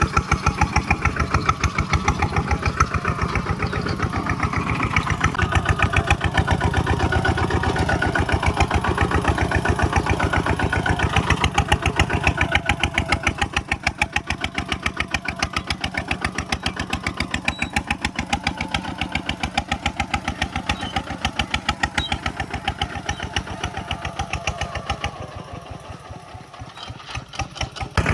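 A Kubota single-cylinder diesel walking-tractor engine running with a steady, even chug of firing pulses. It dips in level briefly near the end, then comes back loud.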